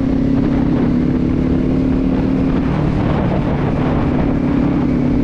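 Kawasaki Z400 motorcycle's parallel-twin engine running at a steady riding speed, with wind rushing over the helmet microphone.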